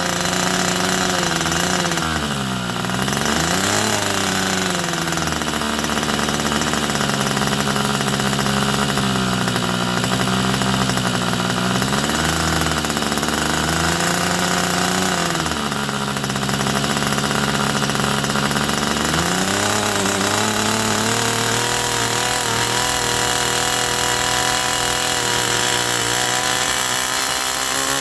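Irvine 61 two-stroke model glow engine running. Its speed drops and picks up again several times, then rises to a higher steady speed about twenty seconds in.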